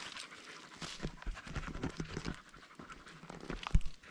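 A dog panting, with a sharp knock about three quarters of the way in.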